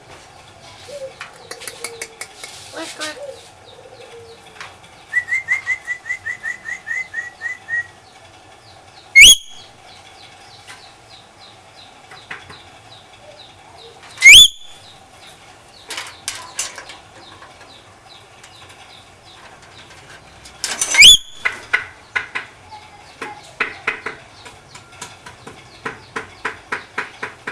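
A pet lory (nuri parrot) calling: three short, very loud rising screeches spaced several seconds apart, with a quick run of repeated high chirps before them and bursts of rapid clicking chatter between and after.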